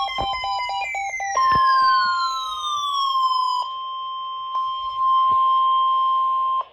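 NOAA Weather Radio warning alarm tone: a steady, piercing single-pitch beep near 1 kHz that starts about a second and a half in and cuts off abruptly near the end, signalling an incoming warning. Before it and over its first seconds, falling electronic pitch sweeps play over a rapidly pulsing beep.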